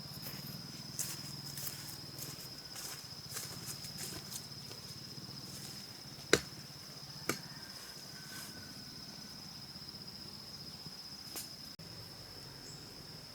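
Steady high-pitched drone of rainforest insects, with a few scattered sharp knocks; the loudest knock comes about six seconds in and a smaller one about a second later.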